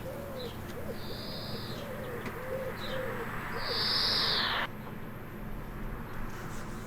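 Garden birdsong: a run of short, low cooing notes, with two drawn-out wheezing calls higher up, the second louder. The wheezes are typical of a greenfinch. The background hiss cuts off sharply about two-thirds of the way through.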